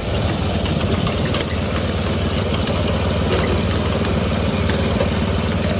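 Tractor engine running steadily, a continuous low drone heard while riding on the tractor.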